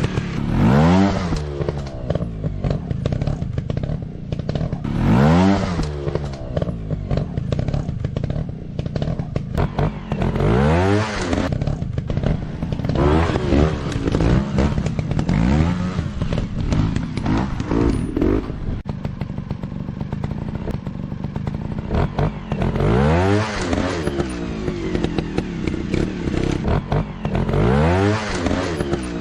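Dirt bike engine revving up and dropping back again and again, its pitch sweeping up several times over a steady running note, with scattered clattering knocks.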